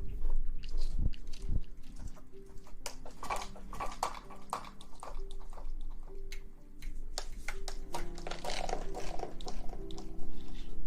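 Close-miked ASMR rustling and crackling: a dense run of irregular quick clicks and scratchy crackles, with soft held background music tones underneath.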